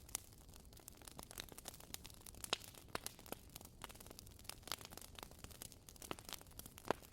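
Wood fire crackling: irregular small pops and snaps from burning firewood, a few louder pops among them, over a faint hiss.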